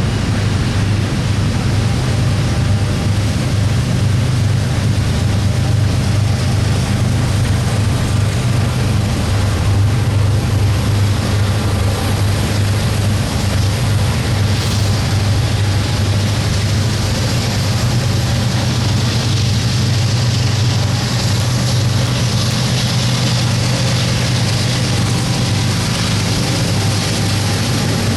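Diesel-electric freight locomotives running, a loud, steady, deep engine drone with a broad rushing noise over it.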